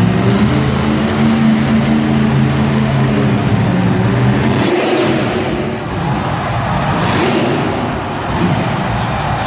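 Monster truck's supercharged V8 engine running loud on the track. It holds steady at first, then revs up and back down around the middle and again a little later.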